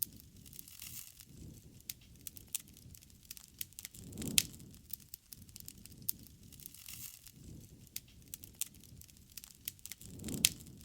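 Wood fire burning with irregular sharp crackles and pops over a low rustling noise, with two louder low swells, about four seconds in and near the end.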